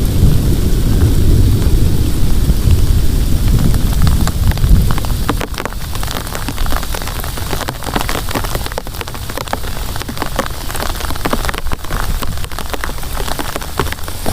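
Heavy rain with a low rumble of thunder that fades out about five seconds in, leaving the rain: dense, sharp drops pattering on a surface.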